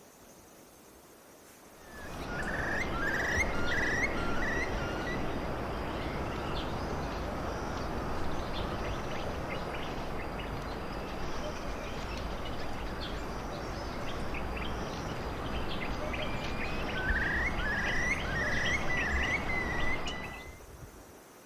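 A bird calling a quick run of five or six short whistled notes, twice, over a loud, steady rushing noise that starts and stops abruptly. Fainter chirps come between the two runs.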